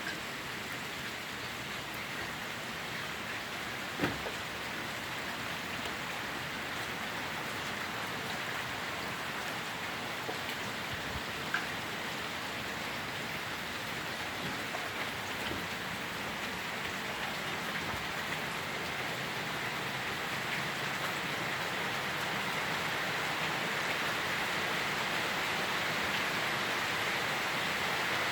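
Steady rain falling, getting slowly a little louder, with a sharp tap about four seconds in and another about eleven seconds in.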